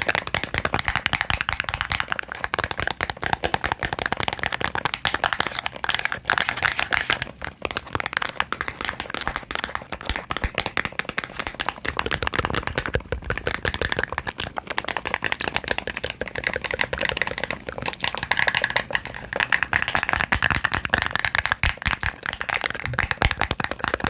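Rapid tapping on small boxes: a dense run of light clicks with a couple of brief pauses.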